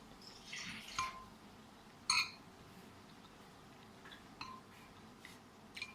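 Dishes clinking at a meal: a sharp ringing clink about two seconds in, with a few fainter clinks and ticks around it.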